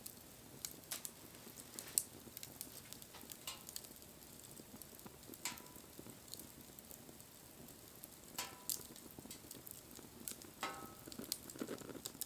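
Wood bonfire crackling: frequent irregular sharp pops and snaps over a soft steady hiss.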